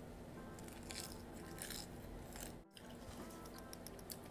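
A person chewing a mouthful of lettuce-wrapped grilled pork belly, with a few faint crunchy bites.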